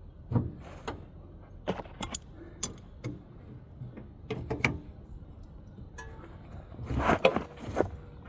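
Hand tools clicking and clanking against metal in a series of irregular sharp knocks as a wrench works a stubborn bolt that is rounding over, with a louder cluster of knocks about seven seconds in.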